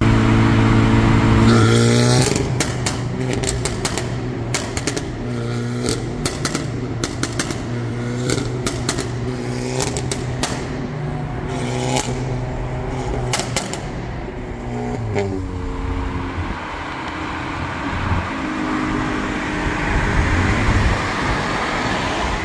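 Car engine revving up several times in short rising sweeps, with many sharp cracks among them, then settling to a lower, steadier run for the last several seconds.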